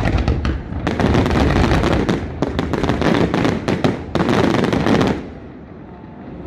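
A Parente Fireworks aerial display: a dense, rapid run of shell bursts and crackling reports that stops suddenly about five seconds in.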